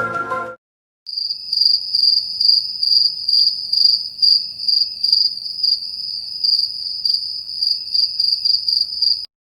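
A cricket chirping: a steady high trill pulsing about three times a second, starting about a second in and cutting off just before the end.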